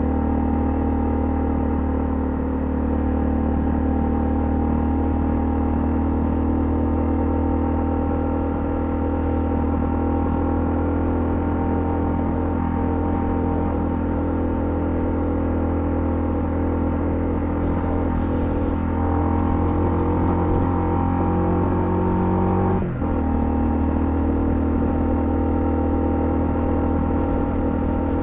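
Honda CL250 motorcycle engine running steadily at cruising speed. Its pitch climbs slightly, then breaks briefly near the end with a gear change and settles again.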